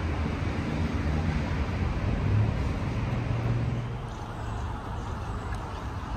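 Street traffic: a motor vehicle's engine hum, loudest for the first four seconds and then fading, over a steady hiss of road noise.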